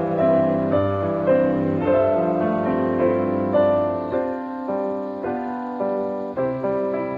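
Background piano music: a slow, gentle melody with a new note or chord struck about twice a second, each ringing and fading.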